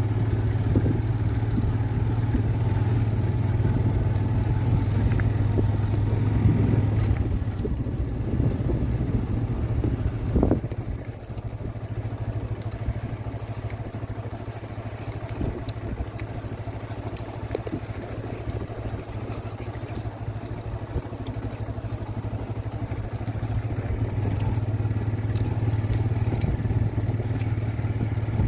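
A motor running steadily with a low hum, louder in the first seven seconds and again near the end, with one sharp knock about ten seconds in.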